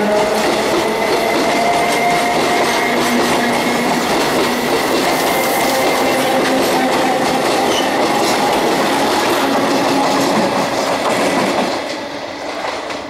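Electric multiple-unit commuter train rolling past close by, its wheels clattering over the rail joints with a thin steady high tone over the clatter. The sound falls away sharply near the end.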